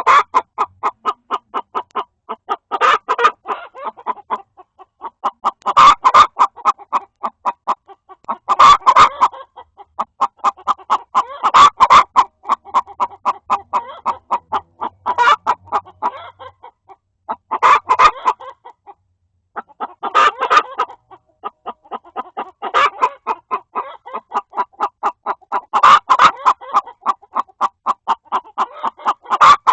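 Hens clucking in a chicken coop: a steady run of short clucks, about four a second, broken by a louder call about every three seconds. One hen is fussing at another that is trying to lay an egg.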